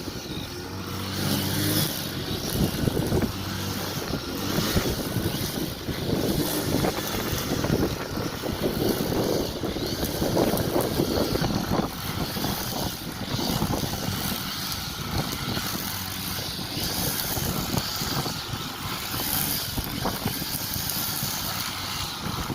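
Lawn mower running steadily while cutting grass.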